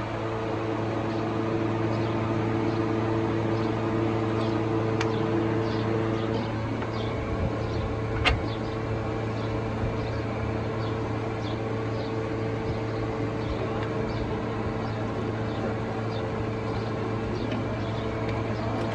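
Toyota Premio's 1ZZ four-cylinder engine running steadily, with faint light ticks repeating about every three-quarters of a second and one sharp click about eight seconds in.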